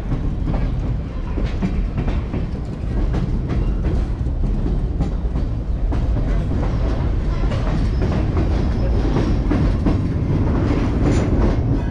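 California Western 'Skunk Train' cars rolling along the track, heard from an open-air car: a steady low rumble of steel wheels on rail with scattered clicks and clacks.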